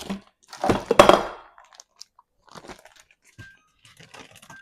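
Plastic bag of frozen corn crinkling and crunching as it is handled and put into a freezer, with a sharp knock about a second in, then lighter rustling.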